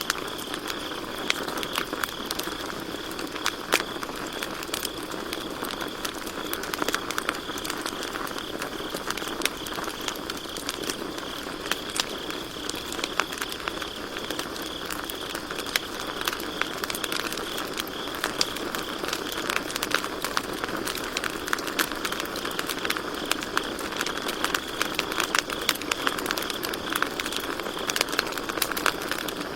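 Campfire burning with continual irregular crackles and pops, over a steady high trill of crickets.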